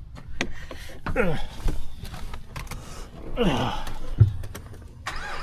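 A man's voice giving two long sighs or groans, each falling in pitch, about a second in and again past three seconds, from the heat, with scattered light clicks between them.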